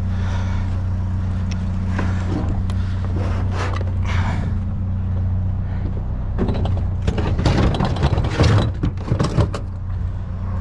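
Truck engine running with a steady low hum. About six and a half seconds in comes a few seconds of clattering and clunking.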